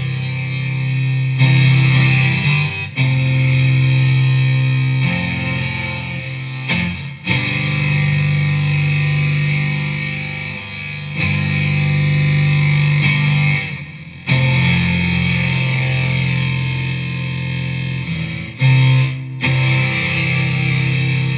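Electric guitar played through a BOSS SY-200 synthesizer pedal, giving thick synth tones: held notes and chords with a strong low note, changing every couple of seconds.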